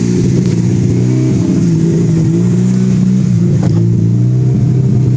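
Mazda RX-7 rotary engine idling unevenly, its note rising and falling as the idle hunts between about 1,000 and 2,000 rpm, which the owner puts down to a vacuum leak. A faint click sounds once, a little past halfway.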